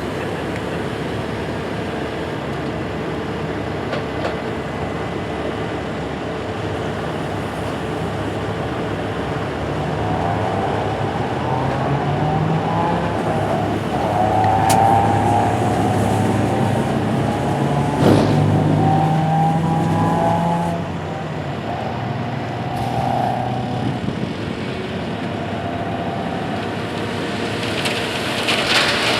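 Heavy diesel truck engine running steadily, picking up revs about a third of the way in and settling back down about two-thirds through. A single sharp knock comes in the middle of the revving.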